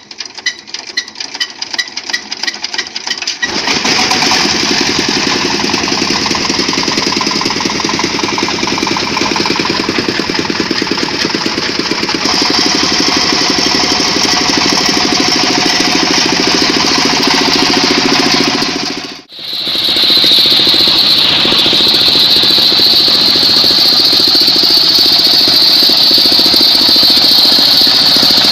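Engine of a mobile circular sawmill idling with a rhythmic knock, then about three seconds in the saw is put to work and a circular blade runs through mahogany with a steady loud high-pitched whine over the engine. The sound cuts out for an instant about two-thirds of the way through, then the cutting goes on.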